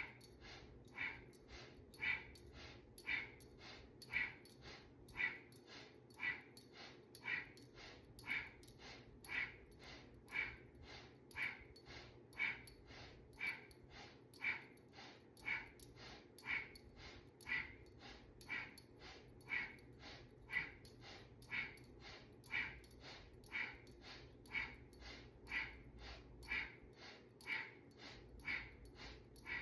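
Fast, rhythmic breathing through the nose, an inhale and an exhale alternating about twice a second in an even, steady rhythm, driving the spine-flexing Cat Cow exercise.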